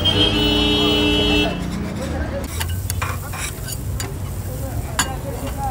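Burger meat sizzling as it fries, with sharp clicks and scrapes in the second half. A steady, horn-like tone sounds for about the first second and a half.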